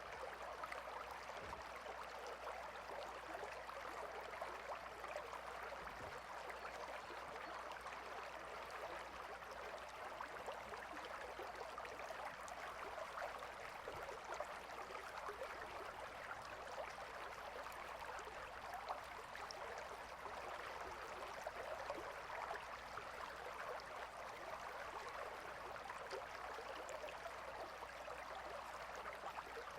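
Gentle river flowing: a steady, soft rush of water with fine trickling splashes.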